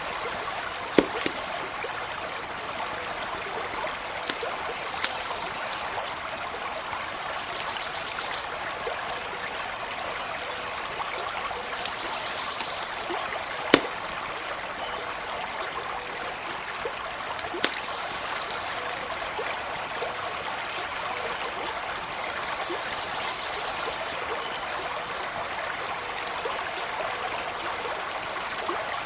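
Small stream running steadily, with a few sharp pops from a crackling campfire, the loudest about halfway through.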